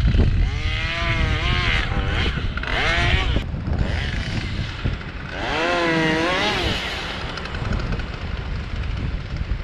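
Chainsaw cutting in three bursts, its pitch dipping and rising as the chain loads up in the wood and frees again. Wind rumbles on the microphone throughout.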